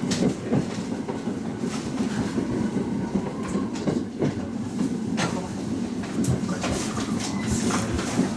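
Local train running along the track, heard from inside the front of the train: a steady rumble of wheels and running gear, with scattered sharp clacks from the rails.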